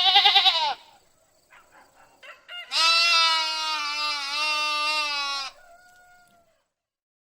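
Sheep bleating: a short, quavering bleat at the start, then a longer, steadier bleat lasting about three seconds.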